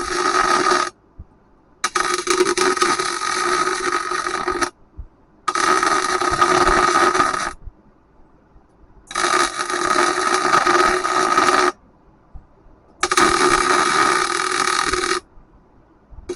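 Electric welder filling old bolt holes in a forklift rim, the arc running in five bursts of two to three seconds with short pauses between them.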